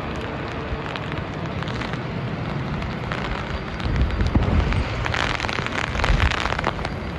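Storm wind and rain from a cyclone buffeting the microphone: a dense, crackling rush with a low rumble underneath that swells for a few seconds about four seconds in.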